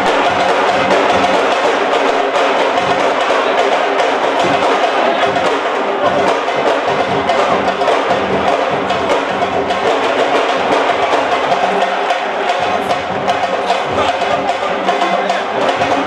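Music driven by fast, dense drumming, with sharp dry strikes.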